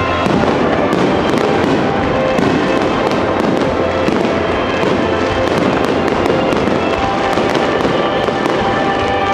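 Aerial fireworks going off in rapid succession: a dense, continuous barrage of bangs and crackling, loud and unbroken.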